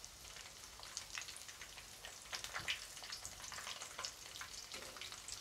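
Breadcrumb-coated prawn chops frying in hot oil: a faint, steady sizzle with scattered crackles and pops.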